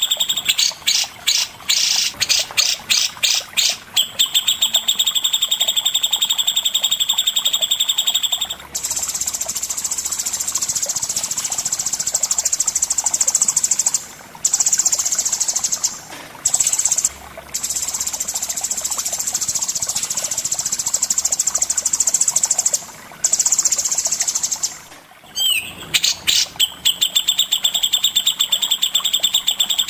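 Songbird singing: rapid strings of high repeated chips for the first few seconds, then a long unbroken buzzing trill with a few short breaks, and fast chipping again near the end.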